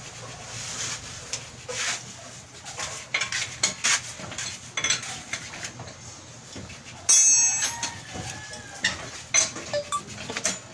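Metal tools and parts clinking and knocking together at irregular intervals, with one louder metallic strike about seven seconds in that rings briefly.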